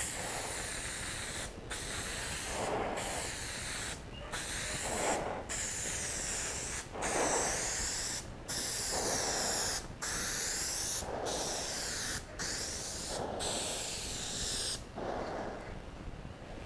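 Aerosol spray paint can hissing in long passes broken by brief pauses, about ten in all, stopping about 15 seconds in. It is a wet coat being laid on a car bumper.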